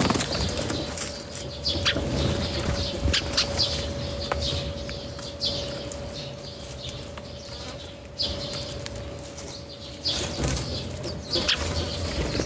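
Birds' wings flapping as they come and go at a feeding spot, with short high chirps. There is a sudden burst of flapping at the start and another flurry about ten seconds in.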